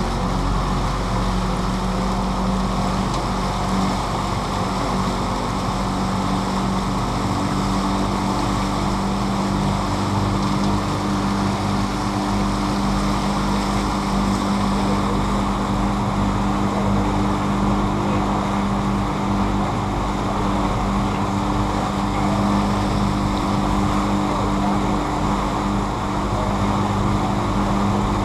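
Tour boat's motor running steadily with an even low hum, over the rush of wind and water.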